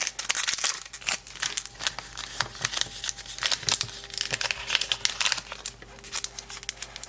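A small toy packaging bag crinkling and being torn open by hand: a dense run of irregular crackles.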